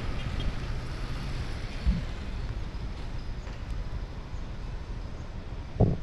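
Low wind rumble on the microphone over steady street traffic noise, with two brief bumps, about two seconds in and near the end.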